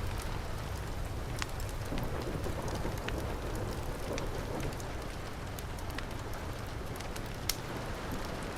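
Heavy rain falling steadily with a low rumble, mixed with the scattered sharp pops of a crackling fireplace fire; the loudest pop comes near the end.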